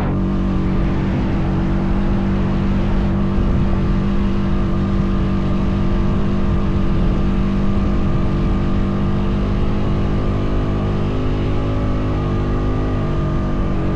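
Honda Foreman 520 ATV's single-cylinder engine running at a steady, even pitch under load while towing another ATV. The pitch eases slightly lower near the end.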